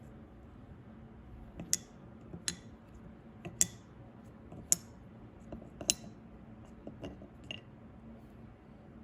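Sharp clicks and taps of small hard objects being handled, about six of them at uneven intervals, over a faint steady hum.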